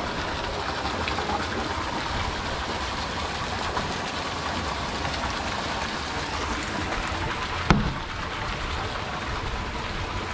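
Steady rushing noise, with one sharp knock about three-quarters of the way through.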